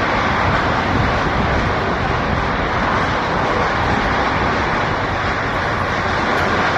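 Loud, steady roar of a tornado's winds, with heavy wind rumbling on the microphone.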